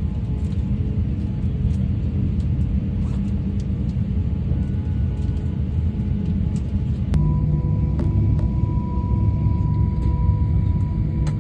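Airbus A350-900's Rolls-Royce Trent XWB turbofan engines at takeoff: a deep, steady rumble with faint steady whining tones above it. About seven seconds in there is a sharp click, and the tones change abruptly.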